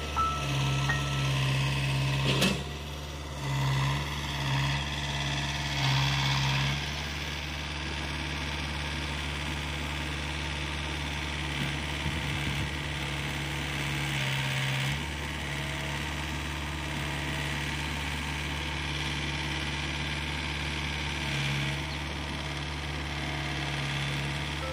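Diesel engine of heavy earth-moving machinery running steadily, surging under load several times in the first seven seconds and again briefly near the end. One sharp knock about two and a half seconds in.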